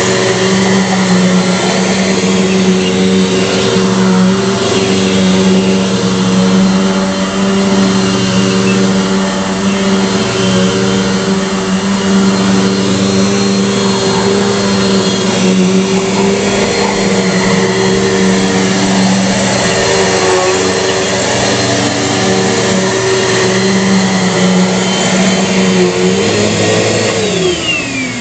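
Bissell PowerForce bagless upright vacuum cleaner running steadily with a loud motor hum and rushing air. Near the end it is switched off and the motor's whine falls in pitch as it winds down.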